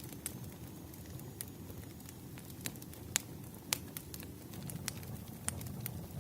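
Wood fire burning, with a steady low rumble and sharp crackles and pops at irregular intervals, the loudest about three seconds in.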